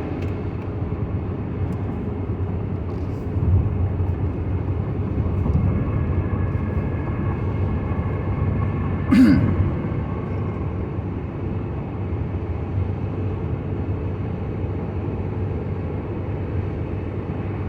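Steady low rumble of a car driving on a wet road, heard from inside the cabin. A short falling sound stands out about nine seconds in.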